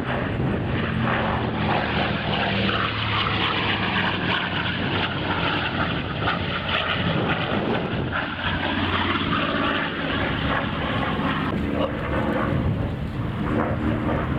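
Propeller-driven airplane flying past, its engine a steady drone whose tone sweeps down and back up during the pass.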